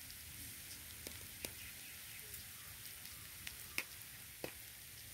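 Coconut, onion and spice mixture frying in an iron kadai: a faint, steady sizzle with a handful of sharp crackles, the loudest a little before four seconds in.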